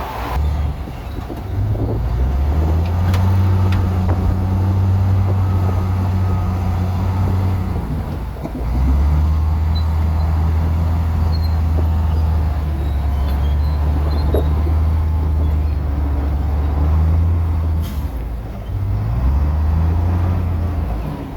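Bulldozer's diesel engine working under load, revving up and holding steady, dropping back about eight seconds in and again near the end before revving up once more, with a few sharp clanks.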